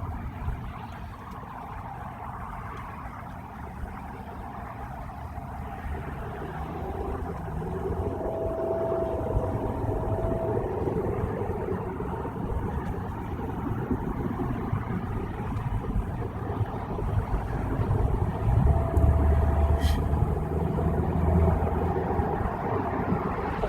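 Road noise inside a car driving on a rainy freeway: a steady low rumble of tyres and engine that slowly grows louder, with a short faint whine twice and a single sharp click near the end.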